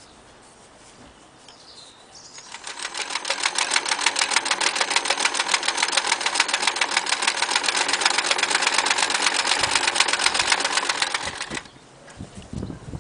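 Frister Rossmann 904 electric sewing machine stitching at speed: a fast, even mechanical clatter that builds up about two seconds in, holds steady, and stops abruptly near the end, followed by a few light knocks.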